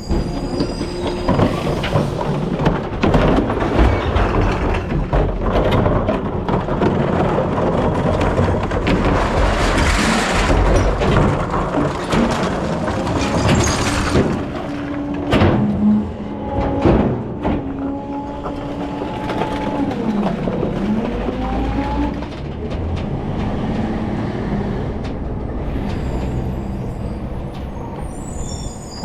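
Rear-loader recycling truck running, with heavy rattling and clanking throughout and high squealing tones sliding up and down around the middle.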